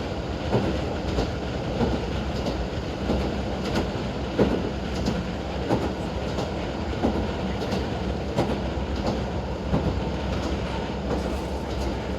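JR Hokkaido KiHa 40 diesel railcar running at speed, heard from inside the car: a steady low engine and rolling drone with the wheels clicking over rail joints about once a second, often in quick pairs.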